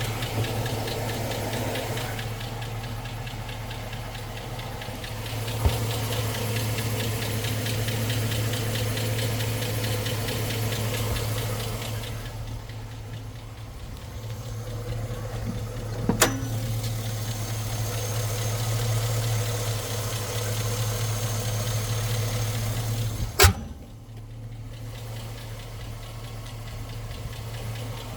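2006 Chevy Silverado engine idling steadily with a fast, even tick, which the owner puts down to an exhaust manifold leak and not a lifter tick. Three sharp knocks break in, the loudest near the end.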